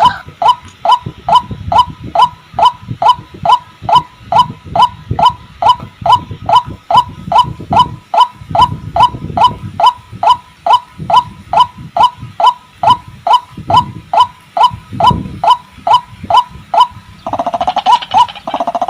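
White-breasted waterhen (ruak-ruak) calling: a steady, rapid series of short, hooked notes, about three a second. Near the end a second, louder, lower-pitched call joins in for a second or two.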